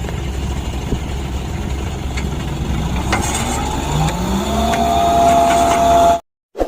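Dump truck engine running with a steady low rumble, then revving up from about halfway, its pitch climbing into a high steady whine that cuts off abruptly near the end.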